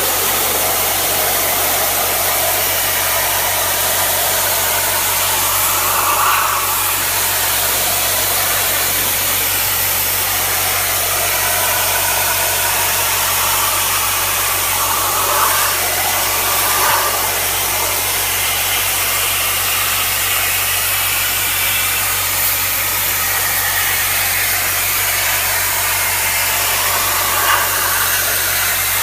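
Air-conditioner cleaning pressure washer spraying water: a steady, loud hissing spray over a constant low hum of the pump motor, with the spray's tone shifting briefly now and then.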